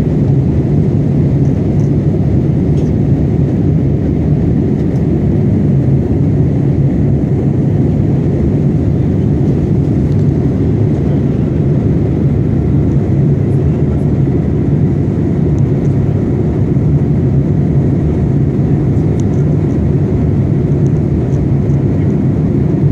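Airliner cabin noise in flight: the engines and rushing air make a steady low drone inside the cabin, with no change throughout.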